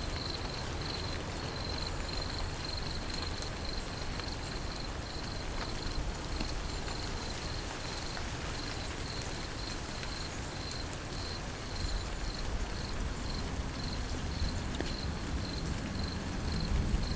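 Steady rainfall hissing, with an insect trilling in a high-pitched, evenly pulsing rhythm of a few pulses a second.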